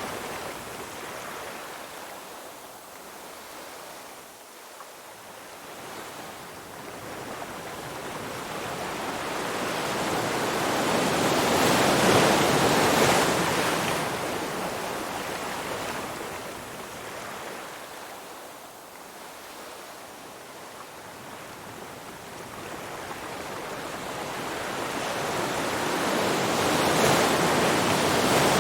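Ocean surf: waves breaking and washing in, a rushing sound that swells and fades slowly, loudest a little before halfway and again near the end.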